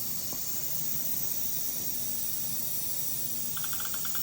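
A steady hiss with no other sound until about three and a half seconds in, when a quick run of short electronic beeps starts, several a second.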